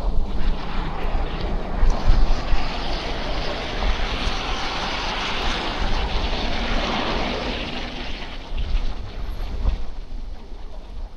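A motor vehicle passing in street traffic, its engine and tyre noise swelling over a few seconds and fading again, over uneven wind buffeting on the microphone.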